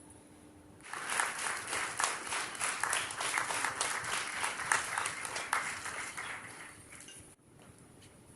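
Audience applauding: many hands clapping, starting about a second in and dying away, then breaking off abruptly near the end.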